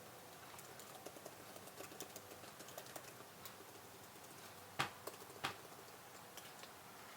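Computer keyboard typing: faint, irregular key clicks, with two louder clacks a little past the middle.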